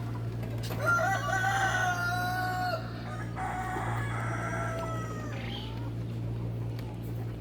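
A rooster crowing twice: one long crow about a second in and a second crow just after it, over a steady low hum.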